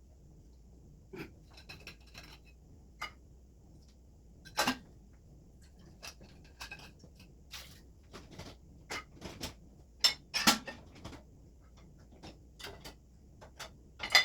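Dishes and kitchenware being handled: scattered clinks and knocks, some with a brief ring, loudest a little after halfway.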